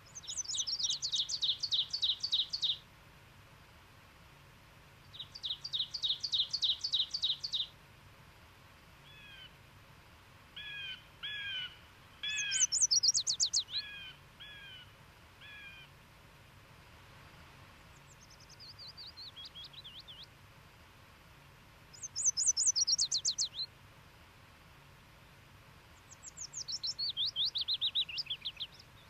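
Several songbirds singing: a rapid trilled song of about two and a half seconds repeats several times, some phrases falling in pitch, and a run of short call notes comes in the middle.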